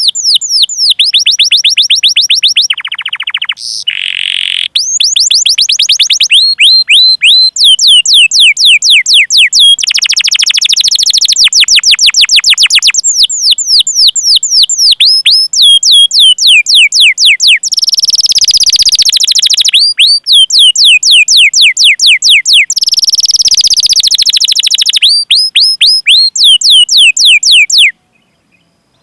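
Domestic canary singing long, loud phrases of rapid 'cuit cuit' notes, each a quick downward-sweeping whistle, repeated several times a second in rolling runs with short breaks between phrases. The sound drops out briefly just before the end.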